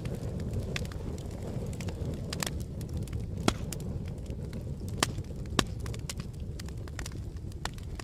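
Wood campfire burning, a steady low rumble of flames with scattered sharp crackles and pops, three louder snaps around the middle.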